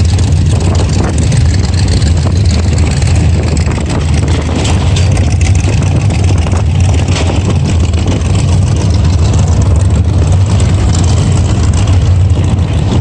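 A vehicle engine running steadily with a constant low rumble.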